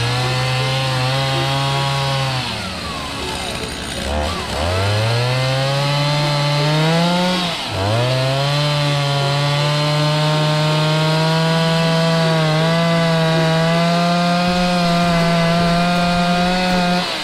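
Stihl MS 290 Farm Boss two-stroke chainsaw running at high revs. Its pitch sags and drops out twice in the first eight seconds, then holds high and steady for about nine seconds before cutting off at the end.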